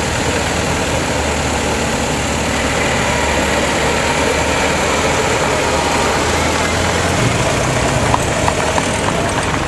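Ford Model T four-cylinder engines running steadily with a low hum as the cars pull away; the pitch steps up about seven seconds in.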